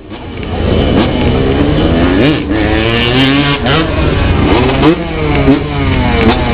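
Motocross dirt bike engines revving, the pitch repeatedly rising and falling as the throttle is opened and closed.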